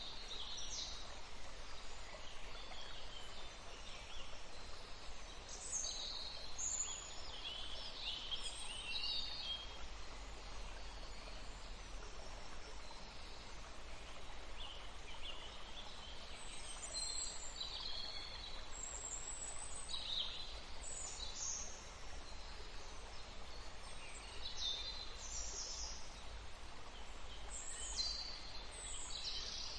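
Several birds singing and calling: clusters of short, high chirps and trills that come and go, thinning out for a few seconds about a third of the way in, over a faint steady low background noise.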